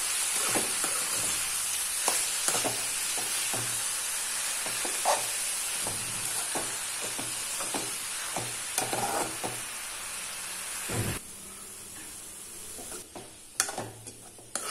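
Chopped banana flower and onion sizzling as they fry in oil, stirred with a metal spatula that scrapes and clinks against the metal pan. About three-quarters through, the sizzle drops away suddenly, leaving the spatula's scrapes and clinks.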